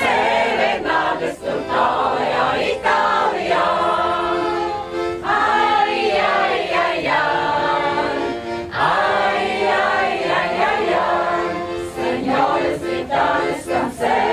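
A group of voices singing together in chorus, with no spoken words.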